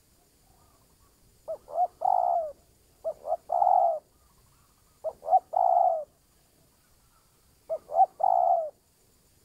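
Spotted dove cooing: four calls, each two short notes followed by a longer, drawn-out coo, repeating every two to three seconds.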